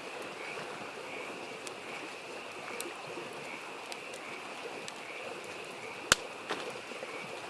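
Wood fire crackling, with scattered pops and one sharp crack about six seconds in, over the steady rush of a stream and a continuous pulsing chorus of frogs.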